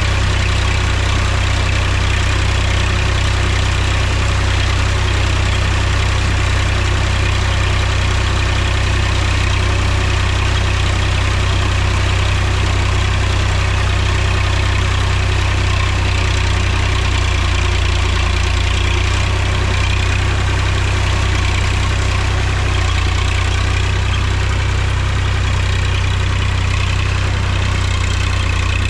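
Mahindra tractor's diesel engine running with a steady, unchanging low hum.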